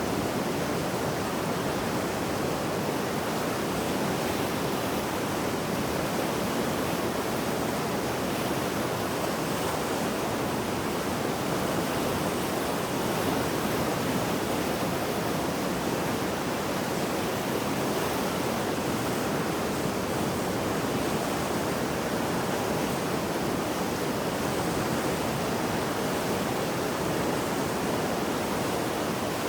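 Mountain river running high and fast after heavy rain: a steady, dense rushing of turbulent water.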